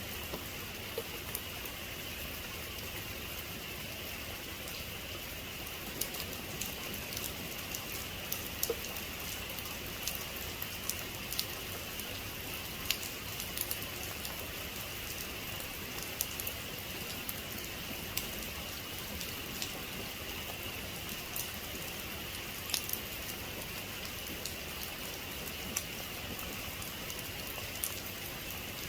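Steady rain falling, with sharp ticks of single drops landing every second or so.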